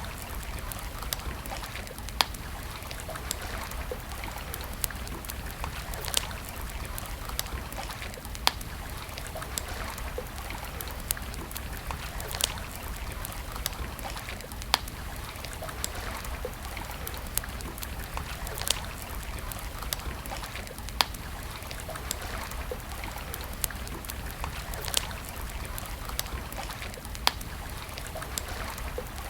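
Campfire crackling, with a sharp pop about every two seconds and finer crackles between. Under it runs a steady rush of flowing water.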